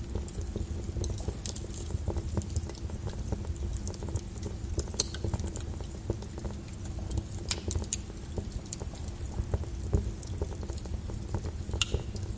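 Wood fire in a fireplace crackling, with irregular sharp pops, a few of them louder, over a steady low noise from the burning logs.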